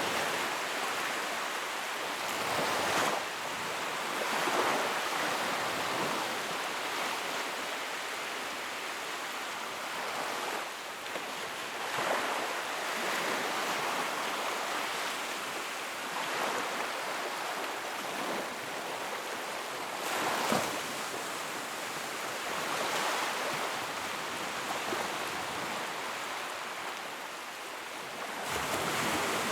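Wood fire in a fireplace, a steady hissing rush of flame with dense fine crackling and a few louder pops, about twelve and twenty seconds in.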